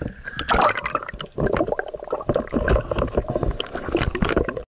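Water sloshing and gurgling close to the microphone, with many irregular splashes and knocks, as a spearfisher moves at the surface. The sound cuts off suddenly at the end.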